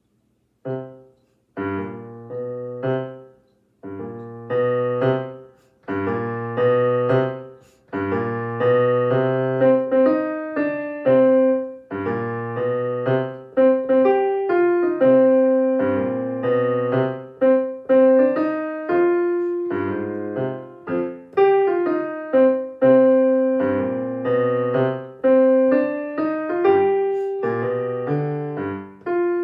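Solo piano playing a jazzy minor-key elementary piece, "creeping along, but with a swagger": detached chords over a repeated bass figure, starting about a second in.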